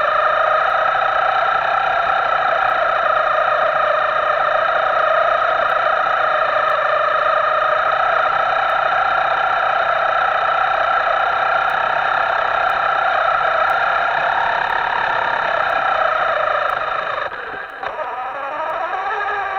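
Electric motor of a Himoto radio-controlled model whining at a steady pitch with a buzzy, distorted edge. About 17 s in the pitch drops briefly, then climbs again as the throttle changes.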